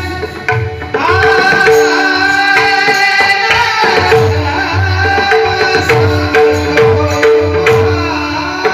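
A male singer holding long, high sung notes over a steady drone, with pakhawaj drum strokes keeping a rhythm underneath. The voice rises into its high note about a second in and holds it for nearly three seconds.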